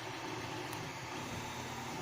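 Steady background hiss with a low hum, and a faint click just under a second in.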